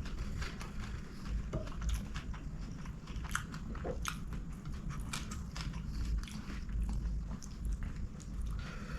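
Close-miked chewing and mouth sounds of a person eating, with many short wet clicks and smacks over a steady low rumble.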